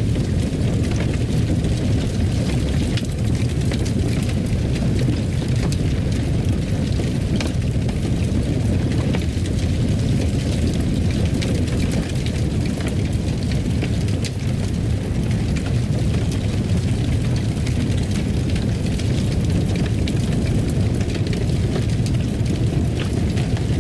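Wood fire burning in a fireplace: a steady low rumble with scattered sharp crackles.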